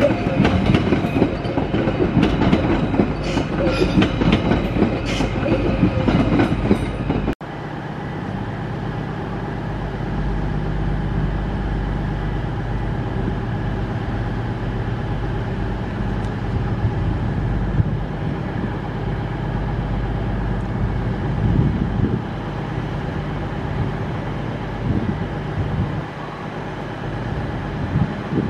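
Merseyrail Class 777 electric train running past over the points, its wheels clicking over rail joints. After a cut about seven seconds in, a steady train rumble with a low hum.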